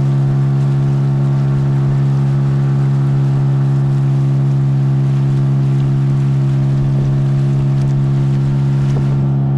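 Engine running steadily at a constant speed, a loud, even drone that holds one pitch throughout.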